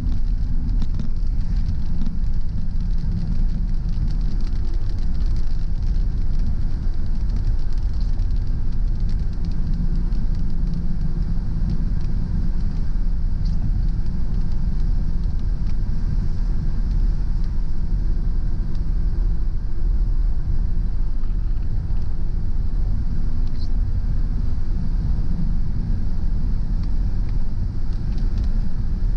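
Car driving at a steady speed on a wet road: a continuous low road and engine rumble with a faint hiss of tyres on wet pavement.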